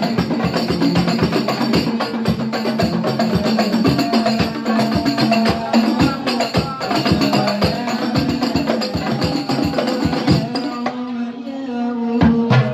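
Banjari percussion ensemble playing: darbuka goblet drums and frame drums beating a fast, dense rhythm together, over a steady pitched tone. About eleven seconds in, the drumming thins out and the strokes come sparser.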